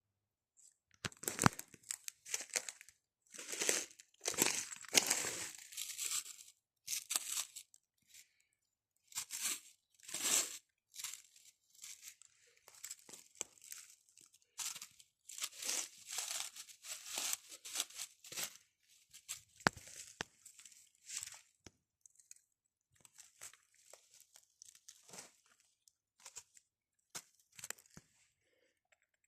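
Rustling, crunching and tearing of forest-floor litter in irregular bursts with sharp cracks, as porcini mushrooms are searched out and picked.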